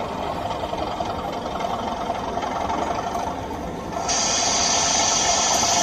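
Model train running on an exhibition layout with a steady mechanical hum. About four seconds in, a loud hiss cuts in sharply and keeps going for about three seconds.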